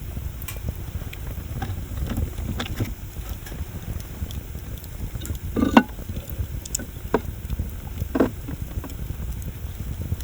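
Open wood bonfire burning: a steady low rumble with scattered crackles and pops, two sharper pops a little past halfway and again near the end.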